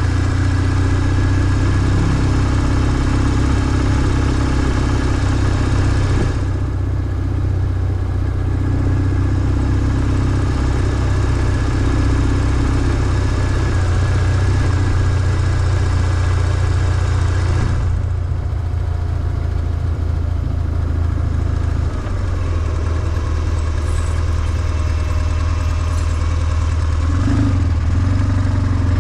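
BMW R1150GS's air/oil-cooled flat-twin boxer engine running at low, steady revs. The higher hiss above it drops away for a stretch in the middle.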